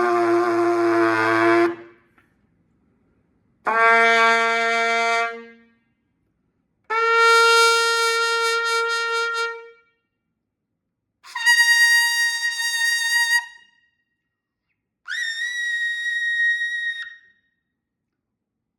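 Holton T105S trumpet with a double-cup mouthpiece playing sustained C's an octave apart, climbing by octave. A low note ends about two seconds in, then four separate held notes follow, each an octave higher, the last one very high.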